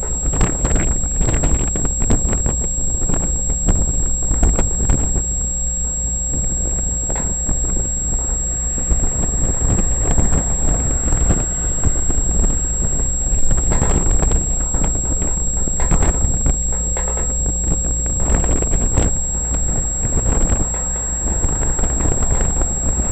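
Steady low rumble of a freight train moving off into the yard, with wind buffeting the microphone in irregular crackling gusts.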